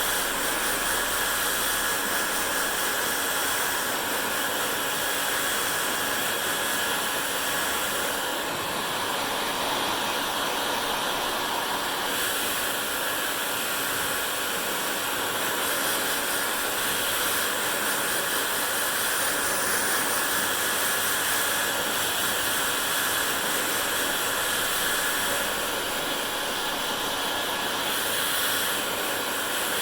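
Hair dryer running continuously: a steady, loud rush of blown air with a faint motor whine, its tone shifting slightly now and then.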